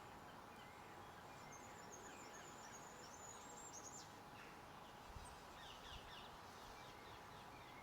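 Faint garden ambience of small birds chirping, with a run of high chirps about two to four seconds in and more around six seconds, over a steady background hiss.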